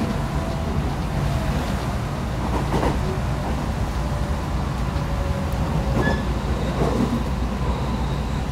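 Passenger train running at speed, heard from inside the carriage: a steady low rumble of wheels on rails with a few faint knocks.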